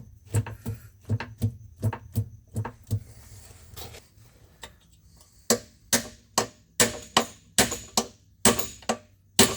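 Zocca 500 shaper running with a low hum and a regular metal clunk about three times a second: free play in the ram drive showing itself on each stroke. The hum stops about three seconds in, and a run of sharp metal clinks follows near the end.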